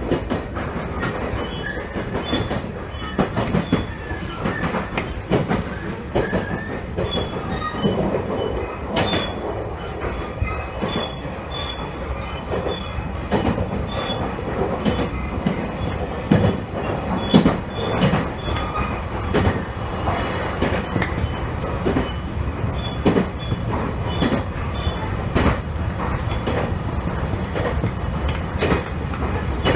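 Electric train running along the Ban'etsu West Line, heard from inside the car: a steady rumble with irregular clacks from the wheels over rail joints and brief, faint high squeals from the wheels.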